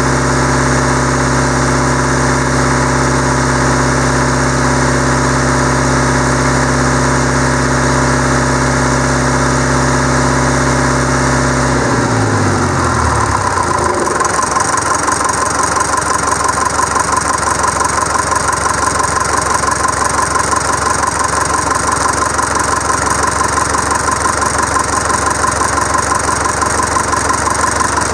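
Deutz F4L912 air-cooled four-cylinder diesel engine running at a steady speed, then throttled back about twelve seconds in, its pitch falling over a couple of seconds as the revs drop to idle. It then idles with an even diesel clatter.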